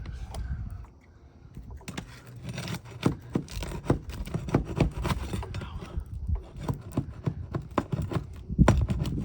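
Metal roofing flat bar working under asphalt shingles: a fast, irregular run of sharp clicks and scrapes starting about two seconds in, with a heavier knock near the end.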